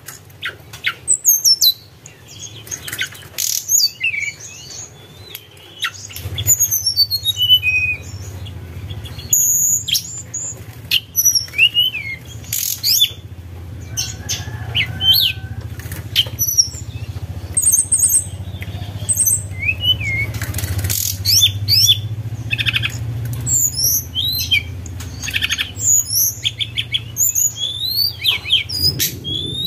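Tledekan gunung singing a high, flute-like whistled song of quick notes that glide up and down, phrase after phrase. A low steady hum sits underneath from about six seconds in.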